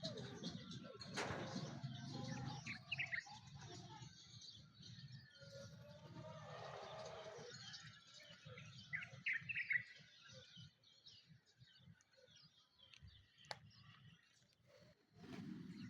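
Several birds chirping and singing in a morning dawn chorus, with a few louder bursts of calls around three seconds in and again around nine seconds in, over a low background hum.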